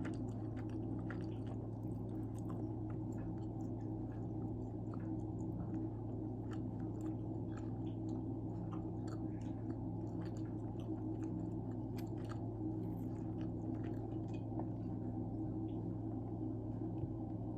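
Close-up chewing of pizza: soft, wet mouth clicks and squishes scattered through, over a steady low electrical hum.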